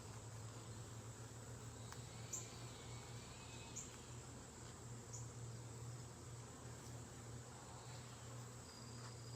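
Honeybees humming steadily around an opened hive, with three short light clicks about two, four and five seconds in.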